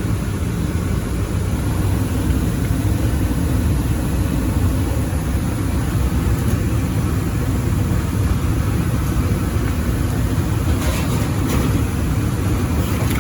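Residential furnace running in heating mode: a steady low rumble from the blower and burners. A few faint rustles come near the end.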